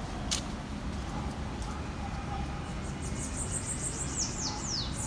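Small campfire of twigs and branches burning with an occasional sharp crackle. From about three seconds in, a rapid run of high-pitched chirps ends in a few falling sweeps, an animal call from the surrounding woods.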